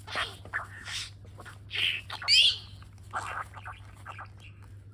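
Budgerigar giving a run of short chirps and chatter, the loudest about halfway through, then softer clicks. The bird is in breeding mood, courting a game controller.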